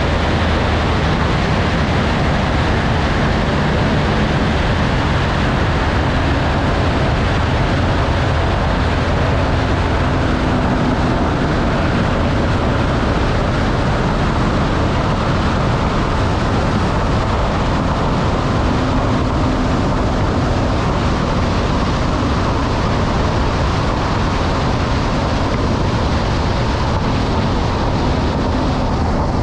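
Velocity V-Twin twin-engine aircraft running steadily, a loud continuous rumble and rush of engine and air noise, with a low hum that weakens about ten seconds in.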